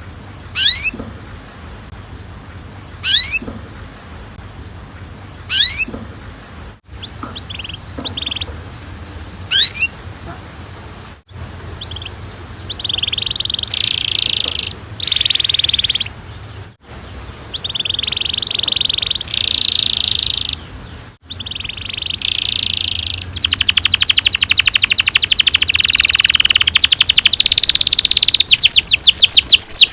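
Domestic canary singing: single rising chirps about every two seconds, then short buzzy phrases, and from about three-quarters of the way in a long, loud, unbroken roll of rapid notes.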